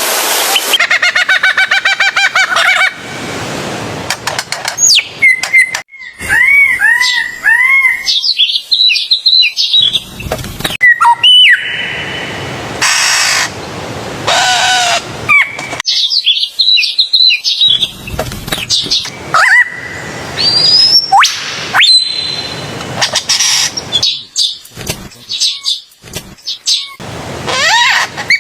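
A varied run of bird calls: whistles, repeated arching notes, chirps and sharp rising sweeps, with the kind of call changing abruptly every second or two.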